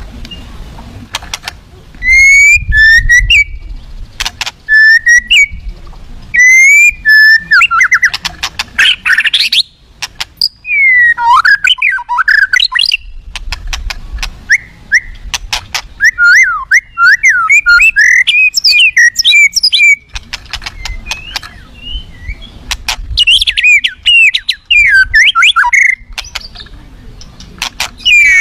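White-rumped shama (murai batu) singing loudly, with varied whistled phrases and sharp clicks between them. It opens with a short phrase repeated three times, then moves into faster, jumbled runs.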